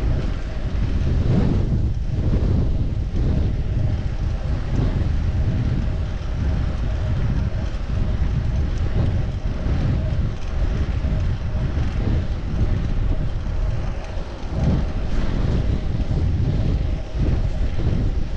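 Wind buffeting the microphone of a chest-mounted GoPro on a moving bicycle: a steady, loud low rumble that flutters constantly.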